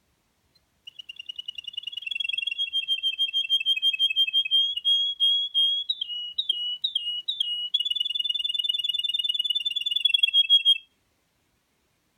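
Male Russian canary singing: a long, high, rapid trill. About six seconds in, it breaks into four quick swooping notes, then returns to a fast trill that stops abruptly near the end.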